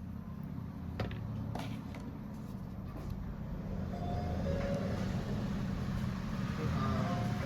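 Steady low rumble of road traffic, growing louder in the second half, with a few faint small clicks.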